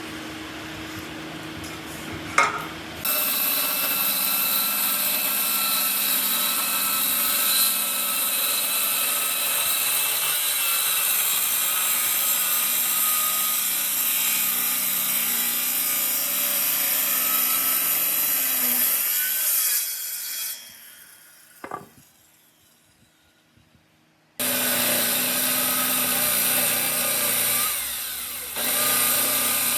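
Electric power tool working wood, running steadily with a whine. It starts about three seconds in, stops about two-thirds of the way through for a few seconds of near quiet broken by a single click, then starts again.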